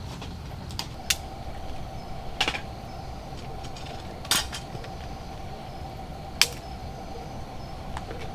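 Scattered sharp clicks and clinks of small hard objects, about five in eight seconds and irregularly spaced, over a steady low rumble.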